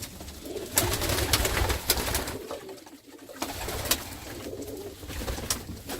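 Domestic pigeons cooing, with scattered sharp taps and clicks.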